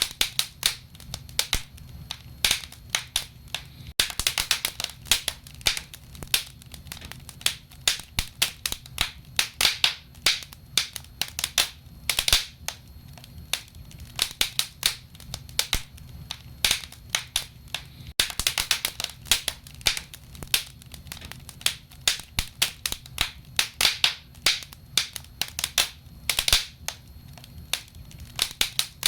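Wood fire burning in a fireplace, crackling with frequent irregular sharp pops and snaps over a low steady hiss.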